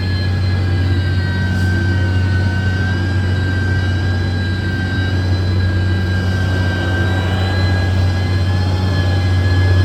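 Heavy construction machine's diesel engine running steadily, a deep constant hum with a high whine over it.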